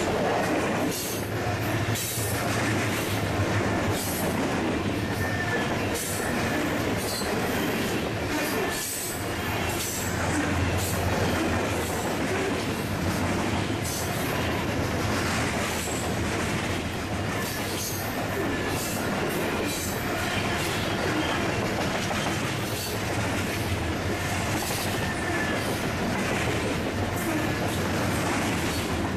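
Canadian Pacific grain hopper cars rolling past close by: steady noise of steel wheels on the rails, with many irregular clicks and knocks.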